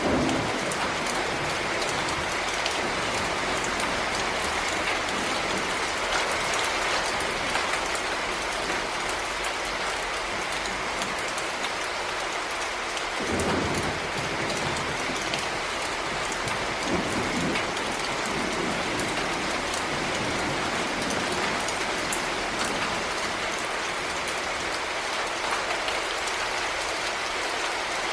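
Heavy rain falling steadily, a dense even hiss of drops striking surfaces, with two brief low rumbles about halfway through.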